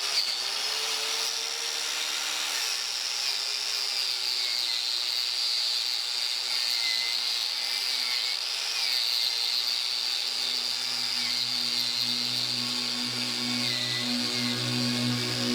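Angle grinder running steadily against a steel railroad spike clamped in a vise, grinding its surface clean; the high whine wavers in pitch as the load on the disc changes.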